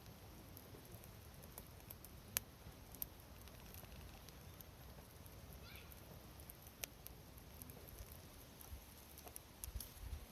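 Near silence: faint outdoor background with a few short, sharp clicks, two of them a little louder than the rest.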